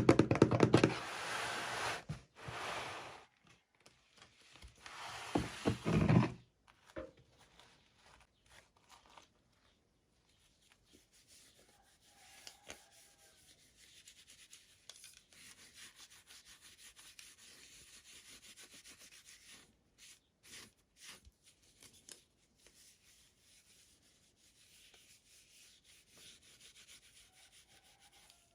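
Hands rubbing and rustling toy packaging as it is unboxed, loud for the first six seconds or so, then only faint handling noises.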